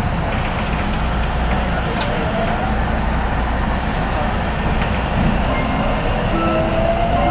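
Electric train running through the station with a steady rumble and rush of wheel noise; about six seconds in a rising motor whine sets in as it picks up speed.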